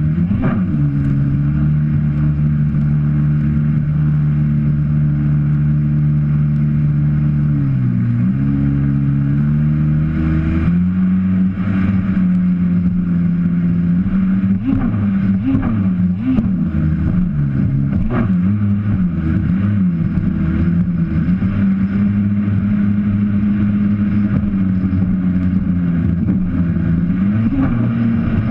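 Jet ski engine running under way: its pitch holds steady, dips briefly about eight seconds in, steps up near eleven seconds, then wavers up and down for the rest, with a few short sharp noises along the way.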